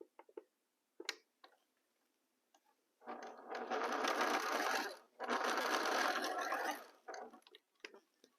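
Sewing machine stitching in two runs of about two seconds each, with a brief stop between them. Light clicks and handling noises come before and after the runs.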